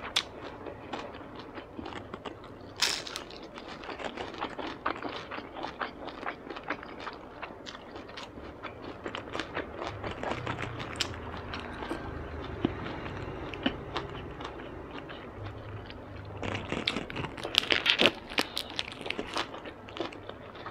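Close-up chewing of a crisp deep-fried Vietnamese spring roll (chả giò) eaten together with a fresh rice-paper roll, with fine crackling crunches throughout. There is a sharp crack about three seconds in and a louder spell of crunching near the end.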